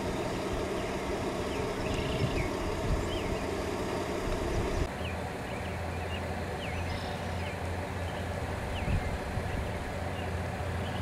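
A vehicle engine idling steadily with a low hum, and short repeated bird chirps over it. The hum changes abruptly about five seconds in.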